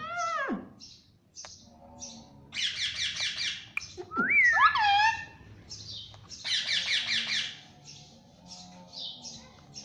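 Pet parrot calling: short sharp chirps throughout, with two bursts of rapid harsh squawks about three and seven seconds in, and a whistled call that rises and falls in between.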